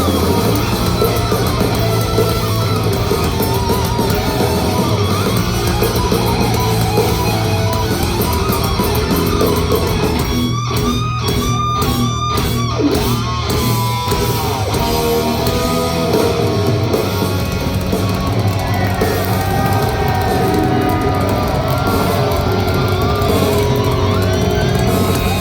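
Heavy metal band playing live: distorted electric guitars, bass and drums at full volume. About ten seconds in, the band plays a run of short stop-start hits, then carries on playing.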